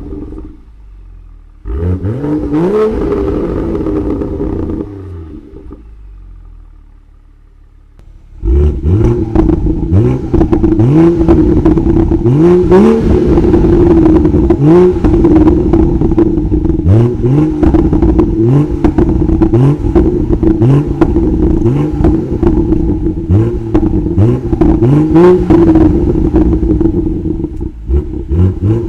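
2018 BMW M2's turbocharged straight-six with its stock exhaust, revved hard over and over. First come a few rising revs and a quieter spell. Then, from about eight seconds in, there is a long loud run of rapid revs, about one a second, with exhaust pops and crackles between them.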